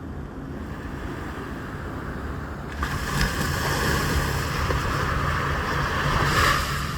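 Sea waves washing in, a hiss that swells from about three seconds in and peaks near the end, over a steady low rumble.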